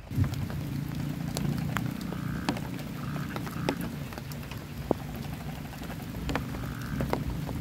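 Heavy rain drumming on a tarp shelter, a dense low patter with sharper individual drops ticking over it; it sets in abruptly at the start.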